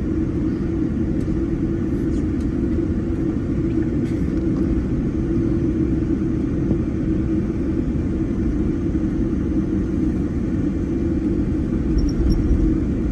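Steady low rumble in a jet airliner's cabin as it taxis after landing, swelling slightly near the end.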